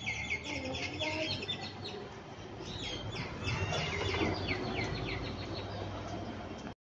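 Many small birds chirping busily, with quick downward-sweeping chirps repeated over and over, above a low steady background rumble. The sound cuts off abruptly near the end.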